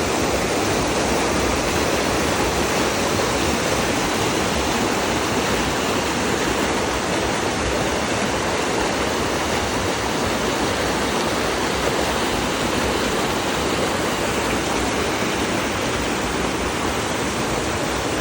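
Natural spring water flowing in a steady, unbroken rush.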